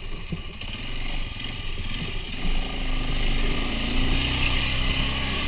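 Quad bike engine running under load, revving up and growing louder about two seconds in.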